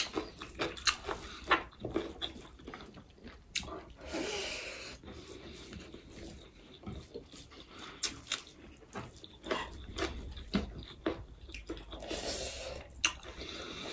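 Close-up mukbang eating: many short chewing clicks and lip smacks, with two longer hissing breaths or slurps, about four seconds in and again near the end.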